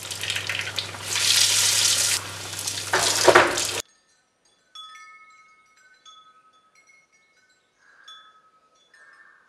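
Bread-and-egg rounds deep-frying in hot oil, with a steady sizzle and a slotted metal skimmer scraping and knocking in the pan, loudest about three seconds in. The sizzle cuts off suddenly. Soft chime notes then ring out one after another, each fading away.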